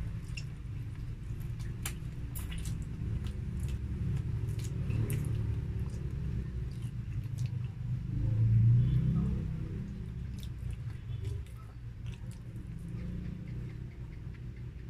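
Close-up chewing and biting of grilled chicken eaten by hand, with scattered small wet mouth clicks over a steady low background hum.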